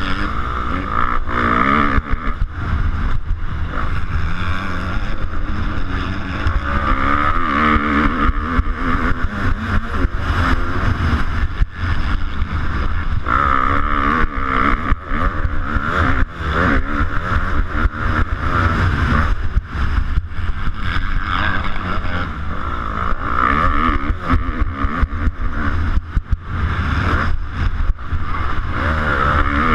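250cc motocross bike engine revving up and down over and over as it is ridden round a track, heard from a GoPro on the bike, with wind rushing on the microphone and frequent short knocks from the bumps.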